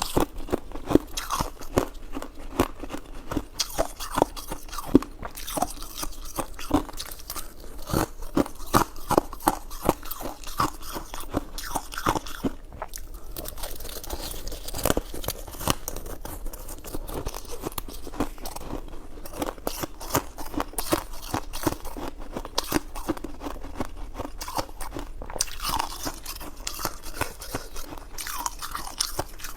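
Close-miked mouth sounds of a person eating: continuous biting and chewing, a dense run of sharp wet clicks with a couple of brief pauses.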